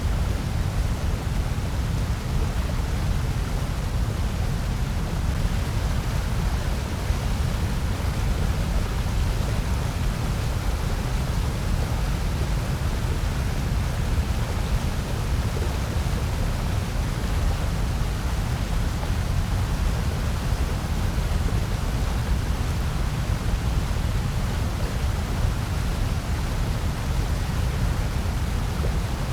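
Steady, unchanging synthetic noise, heavier in the low end: a deep, even rush with a softer hiss above it.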